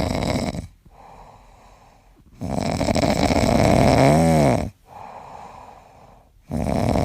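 A cat snoring loudly, in rasping snores about two seconds long that come round every four seconds, with quieter breaths in between. The middle snore slides up and back down in pitch.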